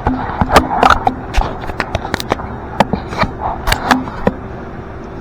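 Hand tools clinking and knocking on metal in an irregular run of sharp clicks, as fittings on the fuel lines of a nitrous system are worked loose; the clicks stop about four seconds in.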